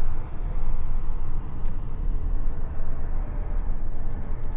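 Steady low rumble of a truck, heard from inside its cab, with a few faint ticks.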